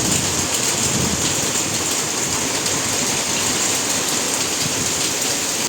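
Steady heavy rain, an even hiss with no break.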